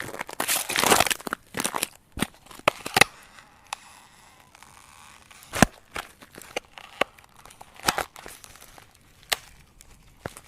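Ice cracking: a dense run of crackling at the start, then separate sharp cracks and snaps scattered through the rest, the loudest about five and a half seconds in.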